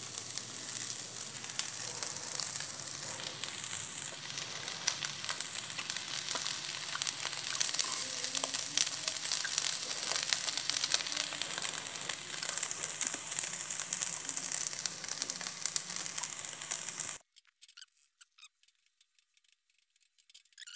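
Fried rice sizzling in a stainless steel wok over a gas flame, with fine crackling and the light scrape and click of a spatula being stirred through it. About seventeen seconds in, it cuts off abruptly to near silence.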